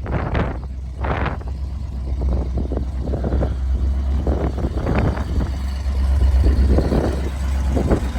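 1983 Ford F700 truck's engine running, a steady low rumble.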